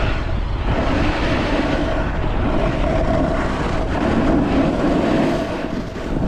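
Snowboard sliding and scraping over wet snow, with wind rushing on the microphone; a steady, loud rumble of noise.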